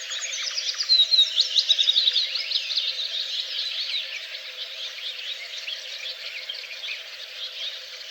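Several songbirds singing and chirping at once, a dense overlapping chorus of quick high notes, with one loud fast trill about a second in.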